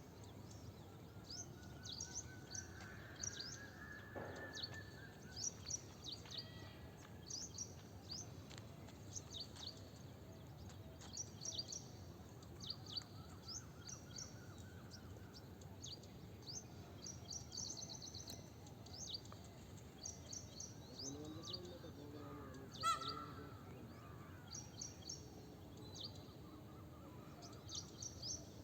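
Faint chorus of birds chirping, many short high chirps repeated throughout over a steady background hiss, with one sharp click about two-thirds of the way through.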